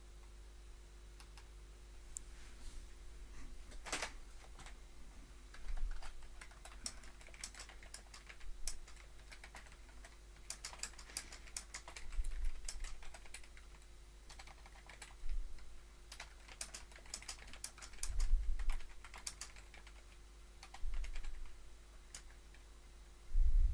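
Typing on a computer keyboard: irregular runs of key clicks, with a few low thumps and a faint steady hum underneath.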